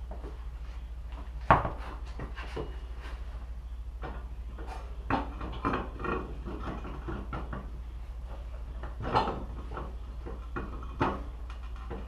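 Scattered knocks and clinks of hard objects being handled, the loudest about a second and a half in and others later, over a steady low hum.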